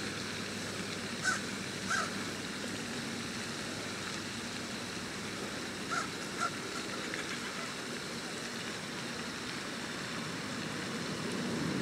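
Two pairs of short bird calls, about a second in and again about six seconds in, over a steady outdoor hiss.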